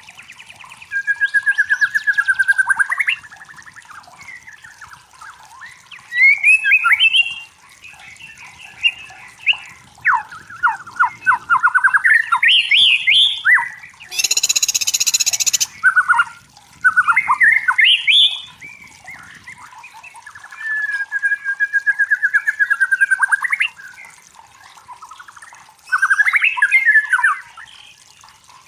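White-rumped shama singing: phrases of clear whistles, trills and rapid rising notes, each a second or two long, with short pauses between them. About halfway through, a harsh hissing burst lasts about a second and a half.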